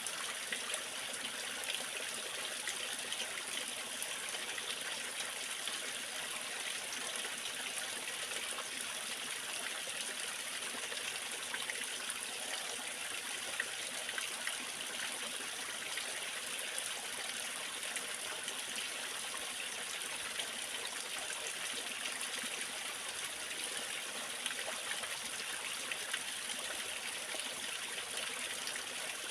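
Waterfall: water falling and running in a steady, even rush with a bright hiss.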